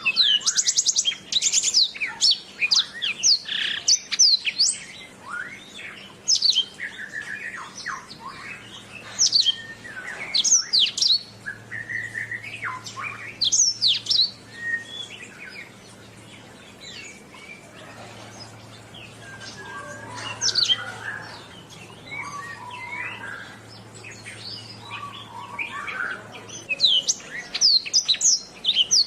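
Domestic canary singing: quick runs of high sweeping whistles and fast trills. It turns quieter and lower for a stretch in the middle, then picks up again near the end.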